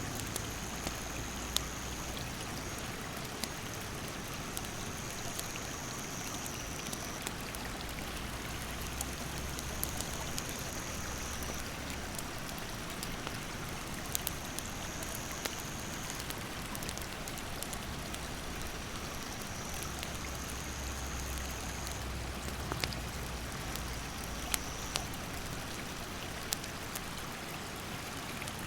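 A stream running steadily over rapids, with a wood fire crackling in scattered sharp pops. A high, thin call of about two seconds repeats every few seconds.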